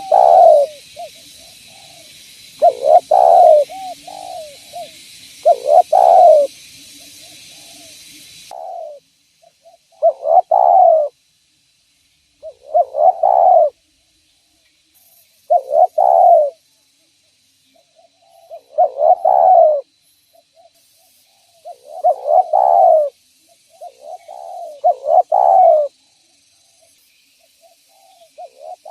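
Spotted dove (tekukur) cooing over and over: about ten loud coo phrases, one every two to three seconds, the call bird-trappers play to lure wild spotted doves. A steady hiss underneath cuts off suddenly about a third of the way through.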